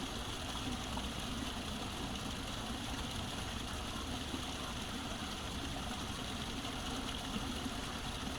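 Steady rush of running water at a koi pond, with a low rumble underneath.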